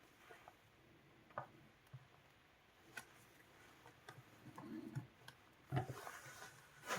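Scattered light clicks and knocks of handling during bench work, several seconds apart, with a louder pair of knocks near the end.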